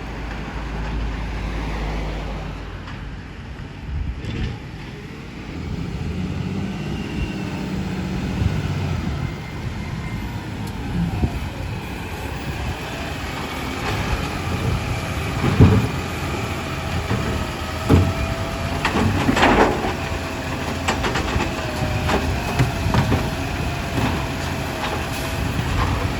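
Garbage truck running, with a low engine rumble, several sharp clunks in the second half and a thin wavering whine that starts about two-thirds of the way in.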